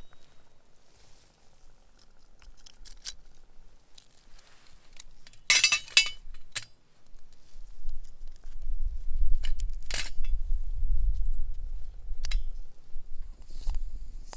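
A few sharp clinks and knocks of handled objects, the loudest a cluster about six seconds in, with a low rumble from about eight to thirteen seconds in.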